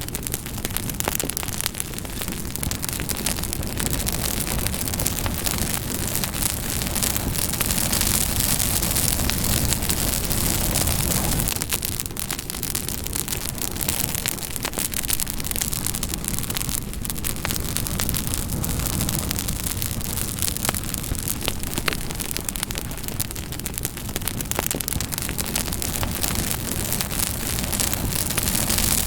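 Campfire burning: a steady rushing noise with frequent small, sharp crackles and pops.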